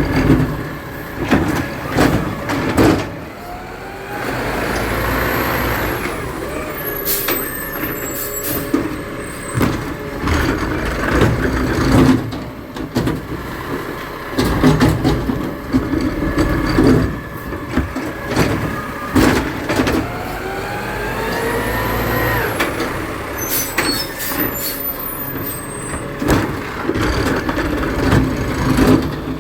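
Trash truck at work: its diesel engine runs throughout, amid frequent clanks and knocks. A hydraulic whine rises twice, about four seconds in and again about twenty seconds in, each time followed by a burst of hissing.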